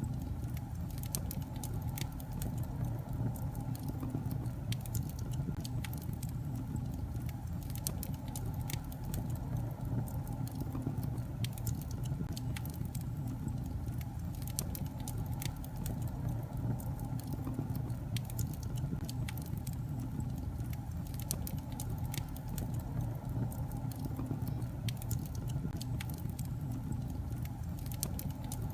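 Wood fire burning in a fireplace: a steady low rumble of flame with frequent irregular sharp crackles and pops from the logs.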